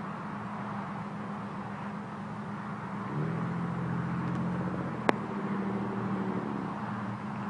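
A 1983 BMW E28 533i's 3.2-litre straight-six running through straight pipes at a steady low note, which shifts about three seconds in. A single sharp click about five seconds in.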